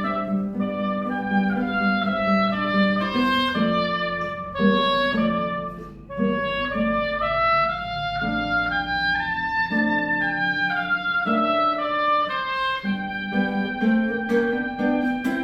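Bayan (Russian button accordion) playing a slow melody in steady held notes over a sustained bass, with a short break in the sound about six seconds in.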